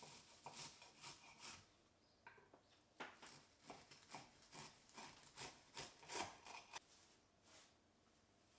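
Knife sawing through vegetables on a wooden cutting board in a run of short strokes, closest together, about two a second, in the second half.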